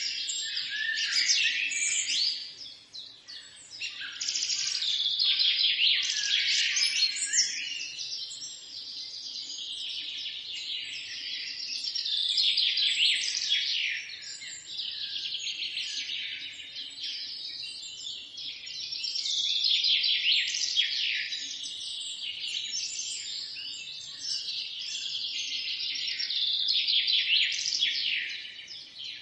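Many birds chirping and singing at once, a dense overlapping chorus of high chirps that swells and eases every several seconds.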